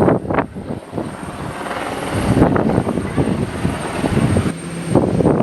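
Strong gusty wind buffeting the microphone in uneven surges.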